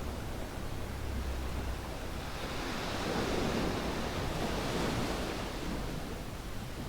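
Waves washing onto a sandy beach, one wave swelling and breaking in the middle of the stretch, then receding.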